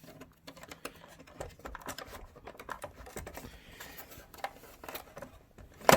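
Irregular small clicks and rattles of hands working the PlayStation 4's internal power supply unit loose from the opened plastic casing, with one sharp knock just before the end.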